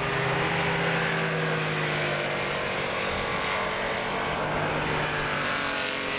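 Early Porsche 911 race cars' air-cooled flat-six engines running on track, the engine note held steady and then slowly dropping in pitch.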